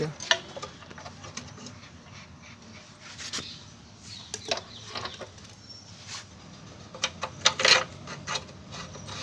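Scattered metal clinks and knocks of tools and bolts as front suspension and steering parts are fitted, with a louder cluster of knocks near the end.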